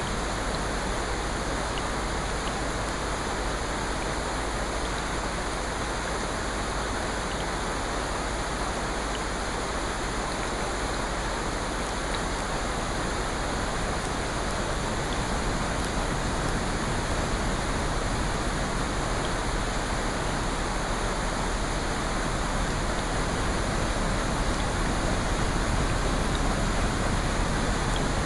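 Steady rushing water sound, an even hiss with no distinct drops, waves or crackles, growing slightly louder in the second half.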